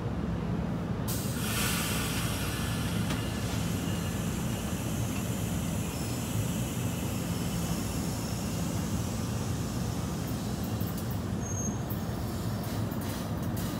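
NJ Transit MultiLevel commuter train standing at the platform, its equipment giving a steady low hum, with a hiss of air from the air brakes starting about a second in and fading over several seconds. A few sharp clicks come near the end.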